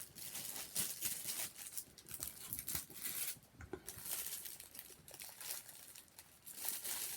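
Sandwich packaging crinkling and rustling as it is handled, in irregular crackles with a short break about three and a half seconds in.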